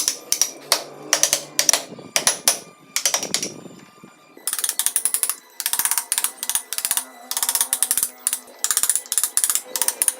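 Hand carving on wood: a run of sharp taps, about two to three a second, then from about four seconds in, repeated short strokes, each a rapid rattle of clicks.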